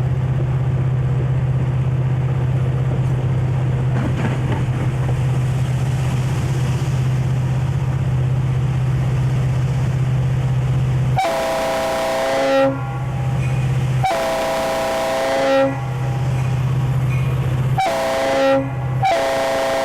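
Conrail diesel locomotive running with a steady low drone. About eleven seconds in, its multi-tone air horn sounds long, long, short, long, the standard grade-crossing signal; the last blast is still sounding at the end.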